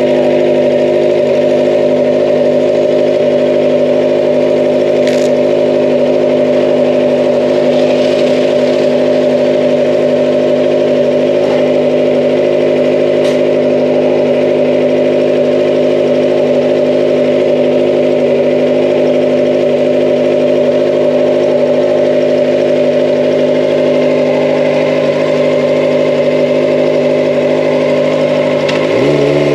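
Kawasaki ZX-25R's 250 cc inline-four engine and exhaust running at steady, unchanging revs, then revving up sharply near the end.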